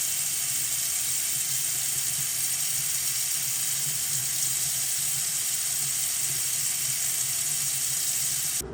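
Bathroom sink faucet running in a steady stream into the basin, cutting off suddenly near the end.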